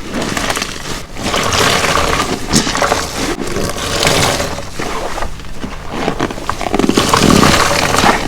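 A detergent-soaked car wash sponge squeezed and released over and over, with wet squelching and crackling of suds in swells about a second long, the loudest late on.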